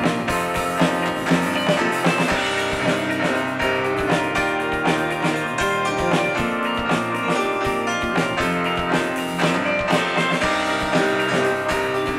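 Live indie rock band playing a song: Nord Piano 4 stage piano, electric guitar, bass guitar and drum kit together at a steady beat.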